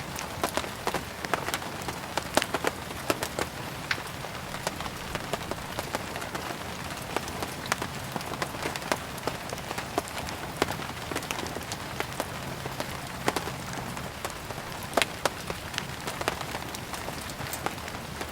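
Steady rain, with a wood fire crackling: sharp, irregular pops and snaps come several times a second.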